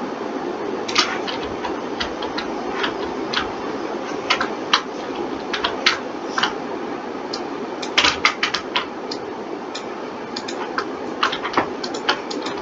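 Irregular clicking of a computer mouse and keyboard, single clicks with a quick flurry about eight seconds in, over a steady background hum.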